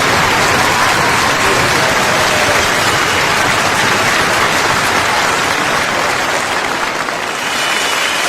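Crowd applause: many hands clapping in a dense, steady clatter. It thins briefly near the end, then picks up again.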